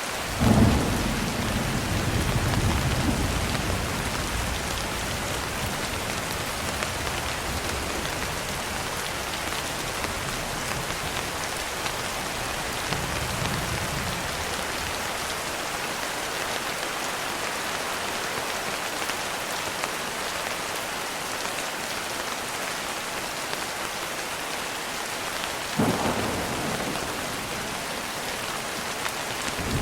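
Steady rain with thunder: a sudden thunderclap about half a second in that rumbles away over a few seconds, a faint rumble near the middle, and another clap near the end.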